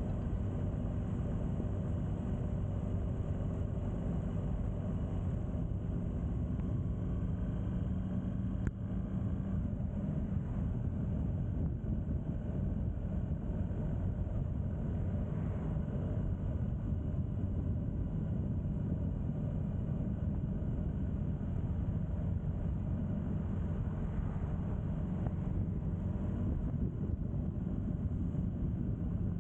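A vehicle engine running steadily: a low, even drone with no breaks.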